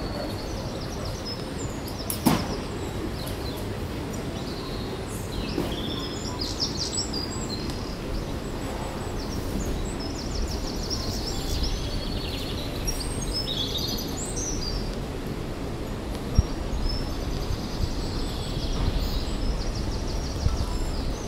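Birds chirping and singing over a steady low outdoor background noise, with two sharp knocks, one early and one about three quarters of the way through.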